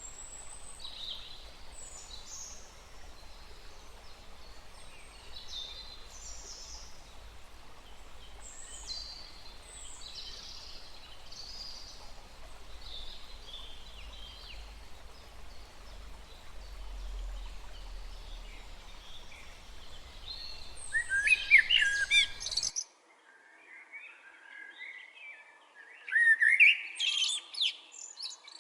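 Wild birds calling and singing, many short high chirps and phrases, over a faint steady background noise. Near the end there is a louder burst of song, then the background cuts out abruptly and another loud bird song follows.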